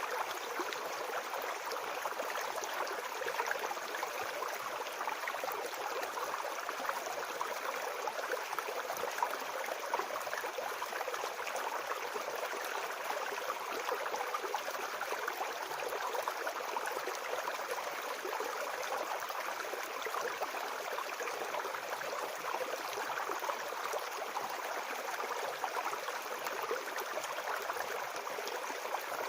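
Babbling brook: water flowing and gurgling steadily, without a break.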